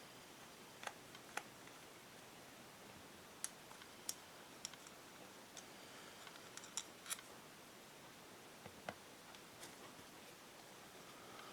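Scattered sharp, light clicks and taps, about a dozen at irregular intervals over a faint hiss: small carburetor parts and hand tools being handled and set down during disassembly.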